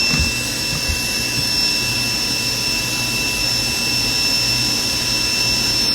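Private jet's turbine engines running: a steady rush with a constant high-pitched whine.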